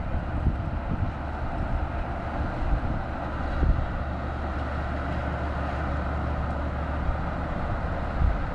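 Steady low engine rumble of a large vehicle, with a noisy wash over it.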